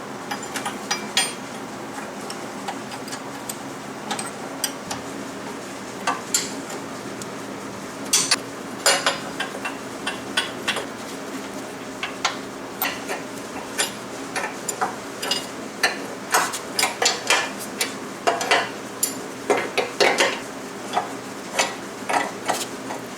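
Hand tools and metal machine parts clinking and knocking irregularly as a vintage Yates American J180 planer is taken apart. The clinks are sparse at first and come thick and fast from about a third of the way in, over a faint steady hum.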